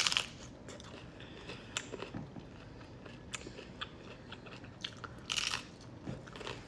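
Biting into and chewing a crisp tostada: a loud crunch of the first bite, small crackling chews, then a second loud crunch about five seconds in.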